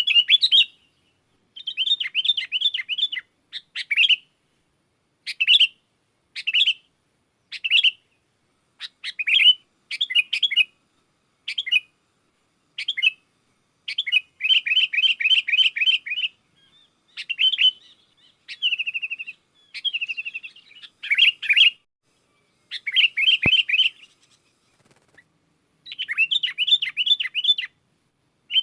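Sooty-headed bulbul (kutilang) singing loudly in short bursts of quick chattering notes with brief pauses, some runs longer. This is the kind of song used to lure wild bulbuls. A single sharp click comes near the end.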